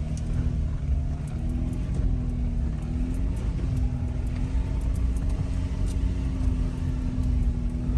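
Jeep engine running as the vehicle drives slowly on the trail, a steady low rumble with a slightly wavering engine note.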